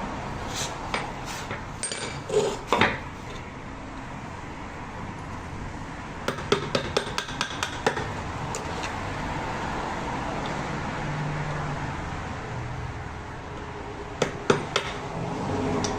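Hand tools clinking and tapping on metal engine parts: scattered sharp knocks, with a quick run of about ten small taps in the middle, over a steady background hum.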